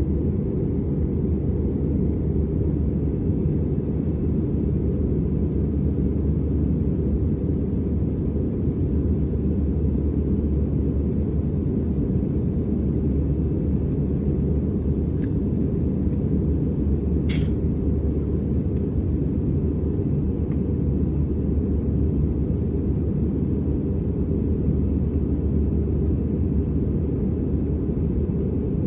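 Steady low rumble of engine and airflow noise inside an Airbus A320's cabin in flight, with a couple of faint brief clicks about halfway through.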